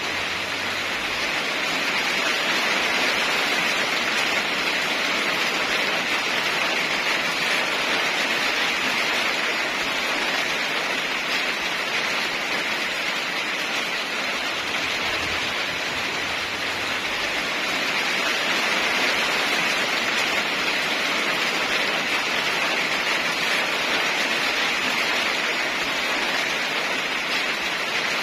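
Steady rain falling, a dense even hiss that swells slightly in loudness twice.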